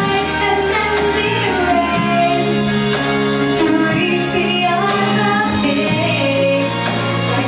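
Female voices singing a song over steady instrumental accompaniment.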